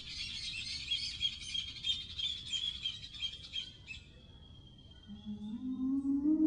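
Birds chirping in quick repeated notes for about four seconds. After a short lull, a low musical tone comes in near the end and climbs in small steps.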